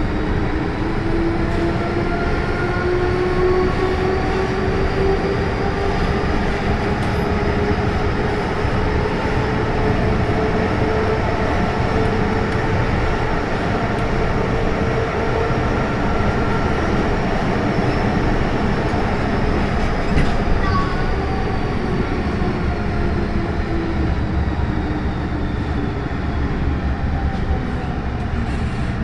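MTR M-Train electric multiple unit running on the line, its motor whine rising in pitch over the first half, holding, then falling away, over a steady rumble of wheels on track. A single click comes about two-thirds of the way through.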